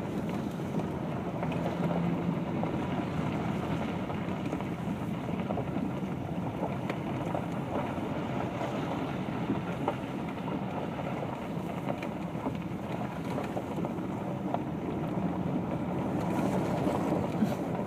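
Engine and tyre noise inside a four-wheel-drive vehicle climbing a steep, bumpy mountain road, with small knocks and rattles from the bumps.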